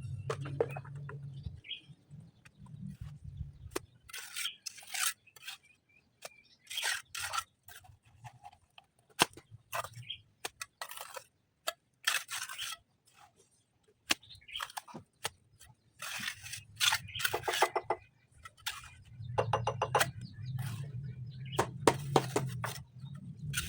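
Irregular scraping and sharp knocking from masonry work on foundation stones, with a short rapid rattle about two thirds of the way through and a low hum near the start and again near the end.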